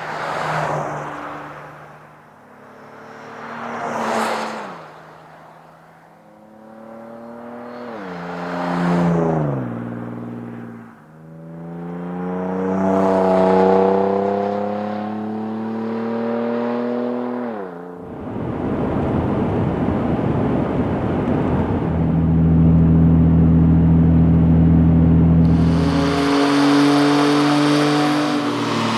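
2010-20 Toyota 4Runner's 4.0L V6 through a Flowmaster FlowFX cat-back exhaust with a straight-through muffler. The exhaust note swells and falls away several times, then runs steadily from a little past the middle.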